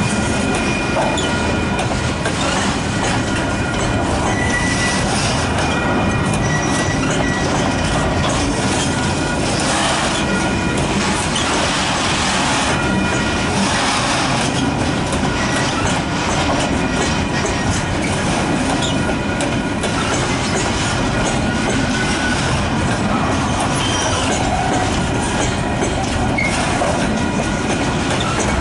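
Freight train of container flat wagons rolling steadily past at close range: a continuous rumble of steel wheels on the rails with some clickety-clack over the rail joints. Thin high wheel squeals come and go, most clearly in the first several seconds.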